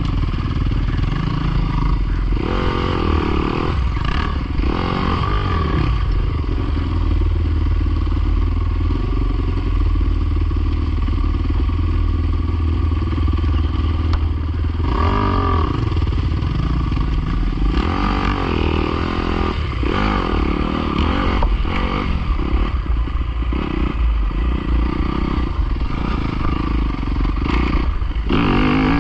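Pit bike engine running under way, its revs rising and falling again and again, with some clattering.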